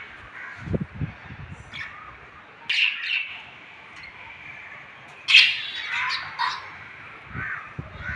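Pet lovebirds squawking and chirping in short harsh calls, loudest about three seconds in and again from about five to six and a half seconds in. There are a couple of low thumps, about a second in and near the end.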